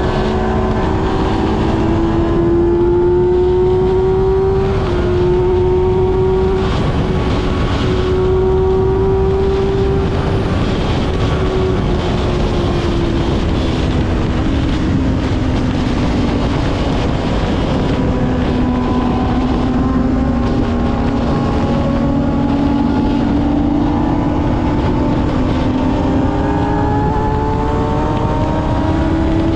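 Kawasaki ZX-6R's 636 cc inline-four running under way, over a heavy rush of wind and road noise. Its pitch climbs for the first few seconds with two short breaks, sinks slowly through the middle, and rises gently again near the end.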